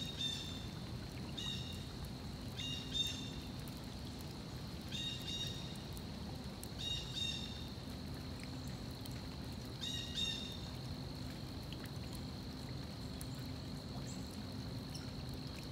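A bird calling about six times in the first ten seconds, each call short and sometimes doubled, over the steady flowing of a stream.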